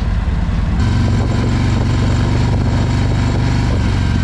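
Harley-Davidson V-twin motorcycle engine running at low speed with a steady low, pulsing note that grows fuller about a second in.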